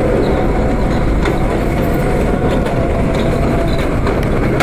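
R32 subway car running at speed: a steady rumble and hum with a few sharp clicks from the rails.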